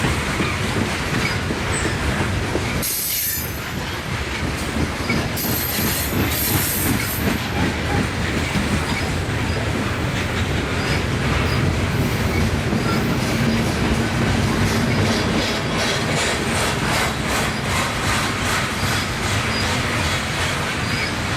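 Freight train rolling by: a steady rumble of steel wheels on rail, with high-pitched wheel squeal about three and six seconds in and a regular clickety-clack over the rail joints in the second half.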